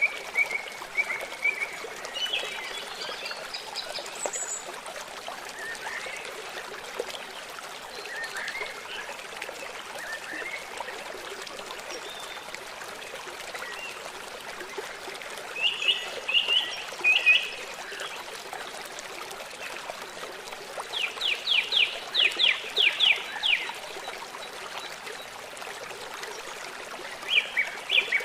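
Forest songbirds calling over a steady trickle of running water: scattered chirps and short phrases, with a quick run of about nine repeated notes a little past two-thirds of the way through.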